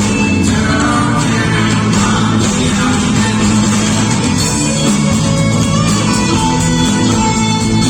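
Loud live band music with electric guitar and singing, in a rock style.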